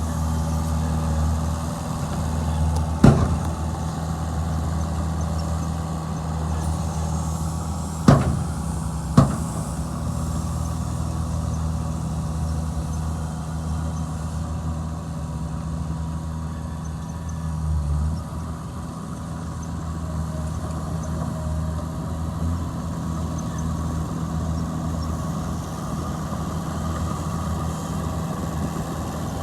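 Heavy diesel engine of earthmoving machinery running steadily. Three sharp knocks stand out as the loudest sounds: one about three seconds in, then two close together around eight and nine seconds in.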